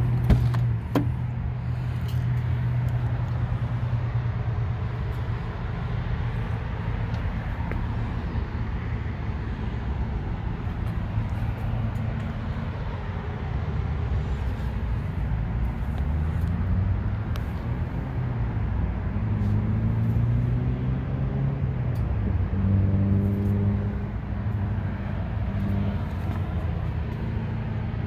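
A motor vehicle engine running with a low steady hum, its pitch rising and falling from about halfway through. A sharp click about a second in as the Jeep Wrangler's door handle is pulled and the latch releases.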